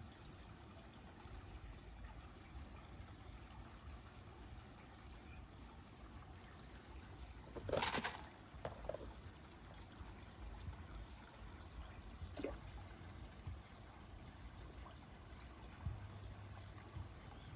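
Koi pond water trickling faintly and steadily, with one brief louder sound about eight seconds in and a fainter one about four seconds later.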